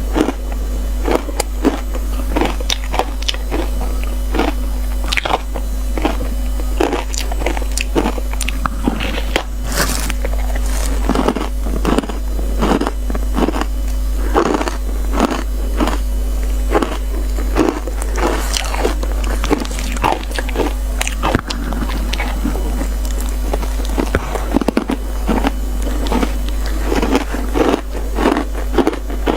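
Matcha ice being bitten and crunched close to the microphone: a quick, irregular run of sharp crunches, several a second, with chewing between bites.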